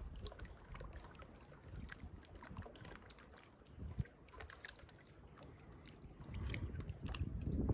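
Kayak paddling: faint water trickling and dripping, with small splashes from the paddle. Wind rumbles on the microphone and grows louder near the end.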